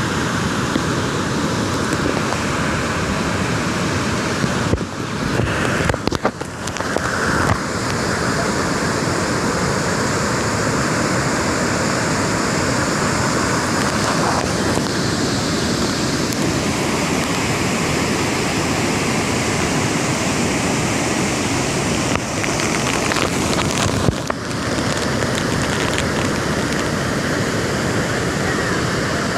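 Loud, steady rushing noise of water and wind in a heavy monsoon storm, with a couple of brief dips in level.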